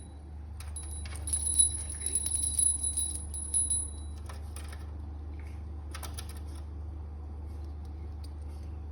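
Small metal bell jingling repeatedly as a parrot plays with it, for about three seconds, followed by a few scattered clicks. A steady low hum runs underneath.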